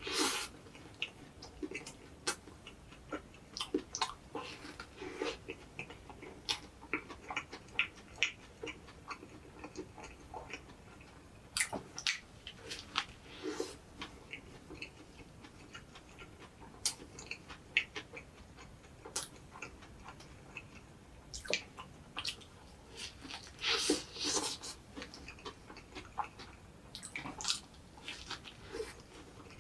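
Close-miked eating sounds of an egg drop toast sandwich: irregular short clicks and smacks of chewing, with a couple of longer noisy bursts at the very start and about three-quarters of the way in.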